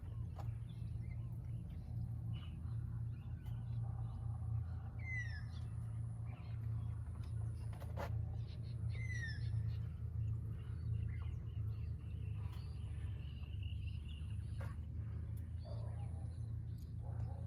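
Birds chirping outdoors, with a couple of quick falling chirps standing out, over a steady low hum.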